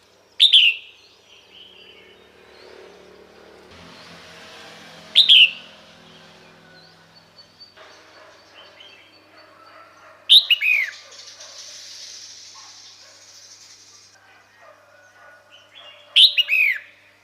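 Female red-whiskered bulbul calling: four short, sharp downward-sweeping calls about five seconds apart, the last two doubled. This is the call that draws a male to come to her.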